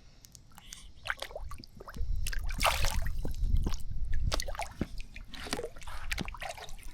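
Pond water splashing and dripping in short, irregular bursts as red-eared slider turtles churn at the surface while a hand reaches in to grab one.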